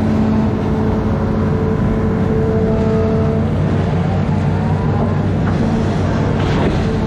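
Amphibious excavator's diesel engine running steadily under load, with a rising whine about halfway through.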